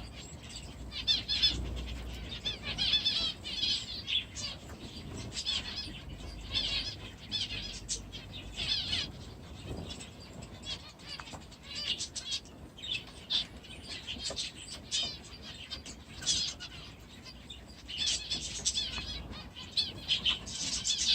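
Small aviary birds (budgies, canaries and finches) chirping and chattering in clusters, with wings fluttering.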